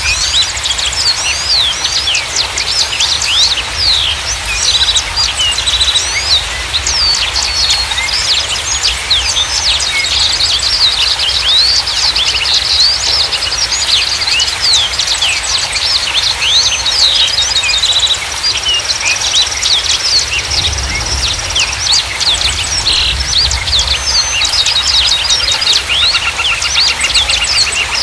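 A chorus of many small songbirds chirping, trilling and calling at once in quick, overlapping phrases, over a steady rushing background noise.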